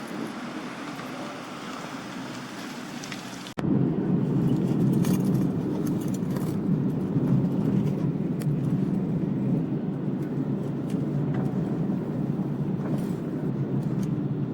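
Steady background hiss that breaks off at a cut about three and a half seconds in, replaced by the louder, steady low rumble of a Tobu Tojo Line train running, with faint scattered clicks.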